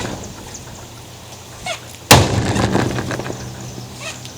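Sledgehammer blow into a big-screen TV set about two seconds in, followed by a rattling, clattering tail as the casing and parts shake and break. Another blow lands right at the end.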